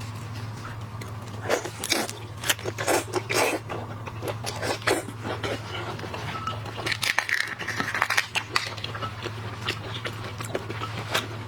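Shellfish shells cracking and crunching irregularly as they are bitten and broken apart while eating, with chewing in between, over a steady low hum.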